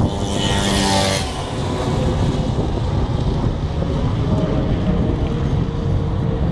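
Wind buffeting the microphone as a steady low rumble while riding a bicycle. About a second in there is a brief pitched sound with a hiss over it.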